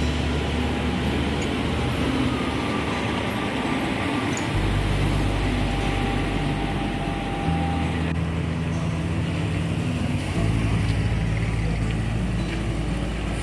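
Buses and traffic running at a bus station, mixed with background music whose low held notes change every few seconds.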